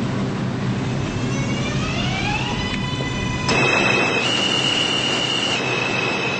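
New York City subway train running, its motors giving a rising whine that climbs through several pitches and then levels off. About halfway through the rumble suddenly grows louder and the wheels start a steady high-pitched squeal against the rails.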